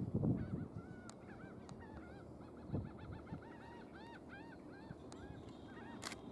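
A bird calling in a fast series of short notes that rise and fall in pitch, several a second, from about half a second in until near the end. A low thump at the start is the loudest sound, with a sharp click near the end.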